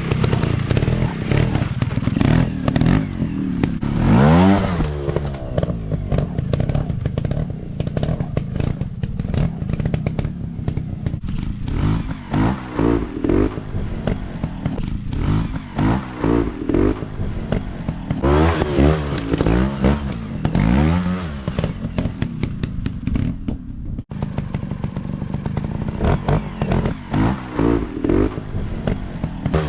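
Dirt bike engines revving up and down again and again as they are ridden over rough ground, with clattering and knocks in between.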